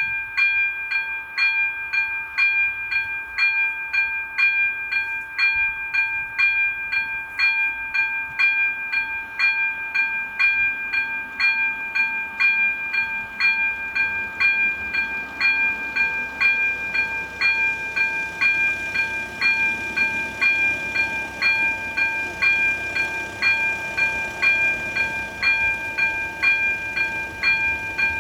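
Level crossing's electronic warning bell ringing in a steady, even rhythm of about two strikes a second, signalling that the crossing is active for an approaching train. A low rumble builds under it in the second half.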